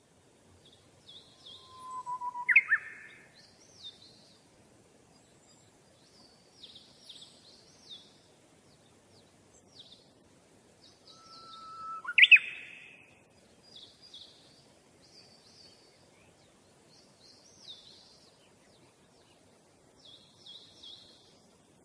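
Birds chirping: quick, repeated high chirps, with a louder call of a held note sweeping sharply upward about two and a half seconds in and again about twelve seconds in.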